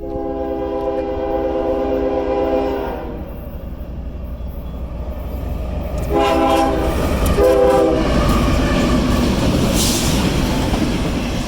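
Union Pacific EC-4 track inspection train passing close by, its air horn sounding one long blast and then two short ones. After the horn comes the loud rush and clatter of the train going by.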